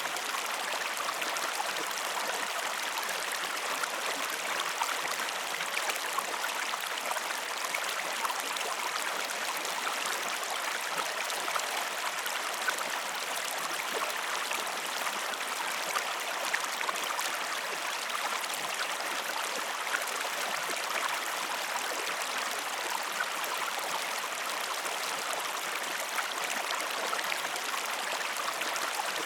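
River or stream water running steadily, an even rushing with a fine babbling texture that does not change.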